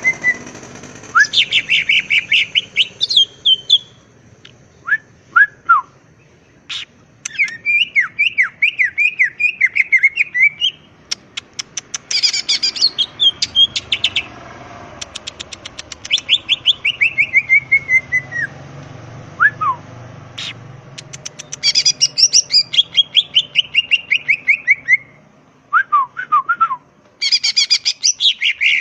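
Cucak ijo (greater green leafbird) singing in full voice: fast runs of loud whistled notes, some sliding down in pitch, mixed with rapid ticking rattles, in phrases broken by short pauses.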